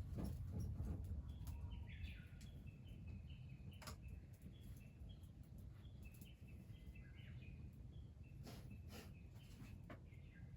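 Faint bird chirping: short high notes repeated again and again. A low rumble runs in the first two seconds, and a few sharp clicks come near the middle and later on.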